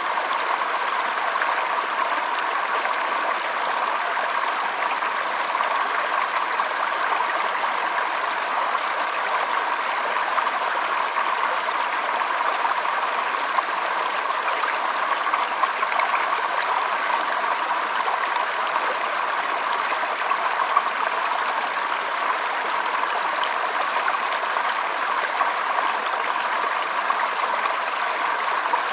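Shallow stream trickling and burbling over stones, a steady flow of water.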